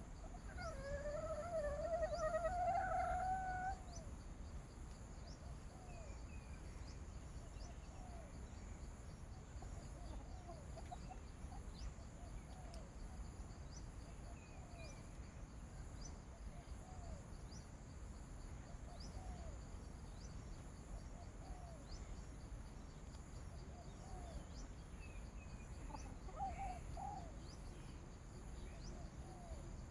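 A rooster crows once near the start, a long wavering call. After it come soft short calls every second or two, and a steady high insect drone runs underneath.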